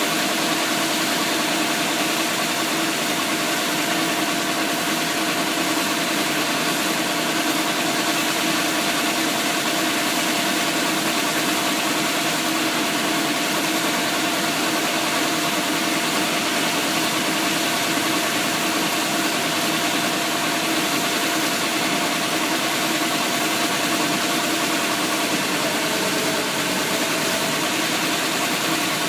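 Engine of a Thai e-taen farm truck running steadily at an even speed.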